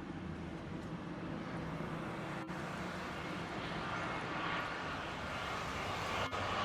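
Jet engines of a Super Air Jet Airbus A320-family airliner, a steady rushing rumble growing louder as the plane nears, with a high whine coming in about four seconds in.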